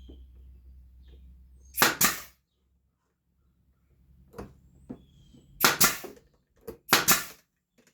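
Brad nailer firing three times, about two, six and seven seconds in, each shot a sharp double crack, driving brad nails into a wooden board.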